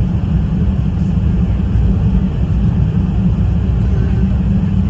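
Airbus A380-861 passenger cabin noise: a steady, loud low rumble of the engines and airflow heard from inside the cabin.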